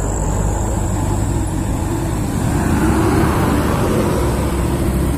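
Heavy truck engines running as loaded trucks drive by, a steady low rumble that gets louder about halfway through.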